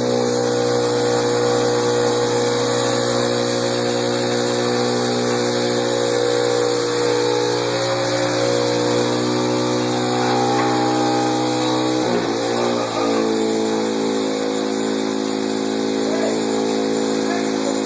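Pit bike engine running steadily at a constant speed. About twelve seconds in its pitch drops and settles at a lower, steady speed.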